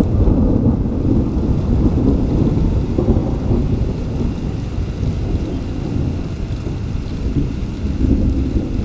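Thunder rolling in a long, low rumble, with rain falling.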